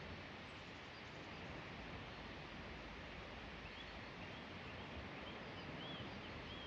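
River water running with a steady rush. In the second half a small bird gives a series of short, high, arched chirps, about two a second.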